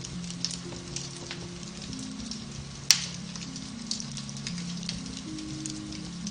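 Beech-wood fire crackling in a fireplace, with scattered small snaps and one sharp, loud pop about three seconds in, over soft, slow piano music.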